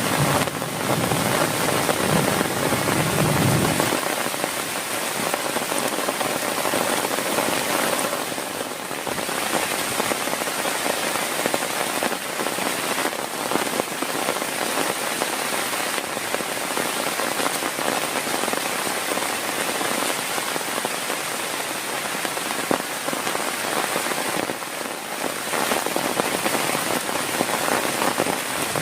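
Heavy rain falling steadily on a surface, a dense, even patter. A low rumble sits under it and stops about four seconds in.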